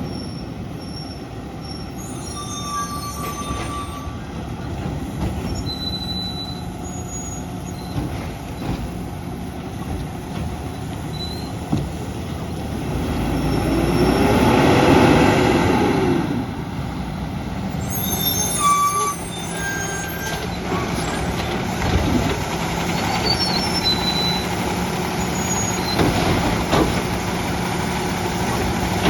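Peterbilt garbage truck with a Labrie Automizer side-loader at work: the diesel engine runs steadily and revs up and back down about halfway through, with scattered short, high squeaks.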